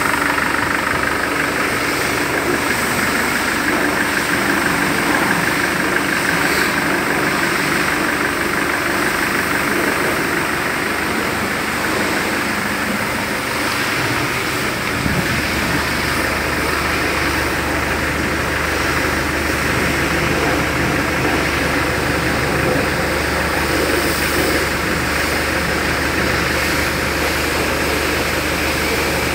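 Land Rover Defender 110's engine idling steadily, with a deeper rumble coming in about halfway through.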